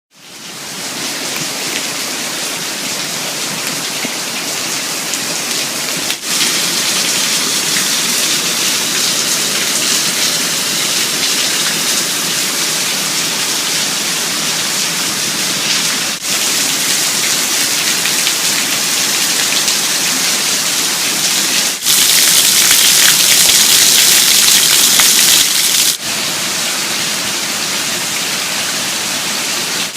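Steady rain falling, a loud even hiss. The level and brightness jump abruptly about four times as one recording cuts to the next, and the rain is loudest and brightest in one stretch near the end.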